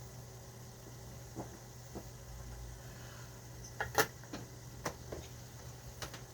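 Kitchen handling noises: several light clicks and knocks, the loudest about four seconds in, over a steady low hum.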